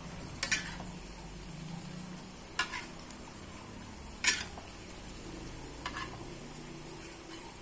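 Potato patties (perkedel) frying in hot oil in a wok with a steady sizzle, and a metal spatula knocking against the wok four times as they are turned.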